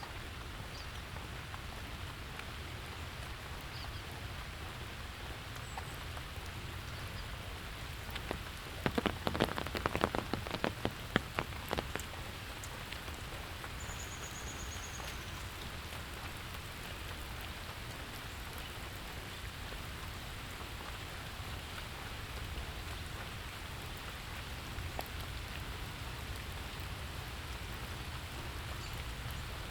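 Steady rain falling, an even hiss of drops on surfaces. A quick run of sharp taps stands out for a few seconds about a third of the way in.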